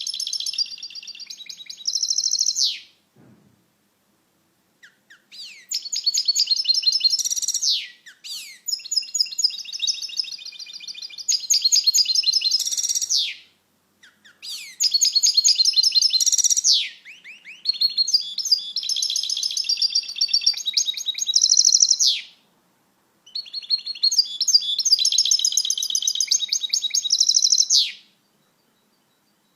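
European goldfinch singing: rapid, high-pitched twittering song in six bouts of a few seconds each, with short pauses between them.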